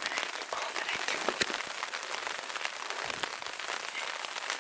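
Rain pattering steadily on a DD tarp overhead: many small, irregular drop ticks over a constant hiss.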